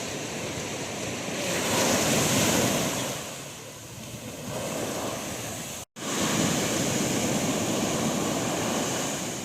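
Sea waves breaking and washing up a sandy beach, swelling loudest about two seconds in and easing off before building again, with wind on the microphone. The sound cuts out for a split second about six seconds in.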